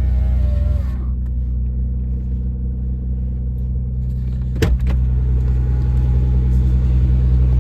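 Nissan 300ZX's V6 engine idling steadily on its high cold-start idle while it warms up. A single sharp knock comes a little after halfway through.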